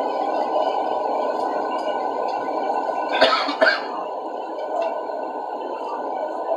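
Steady roar of airliner cabin noise from the engines and airflow, with a brief louder noise about three seconds in.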